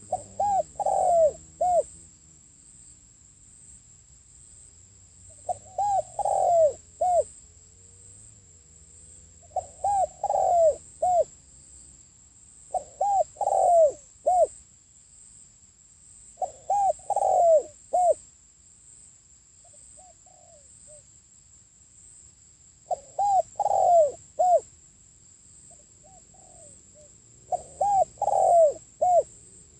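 Spotted dove cooing in repeated phrases of four or five low coos, a new phrase every few seconds. It is the song used as a lure call to draw in wild doves.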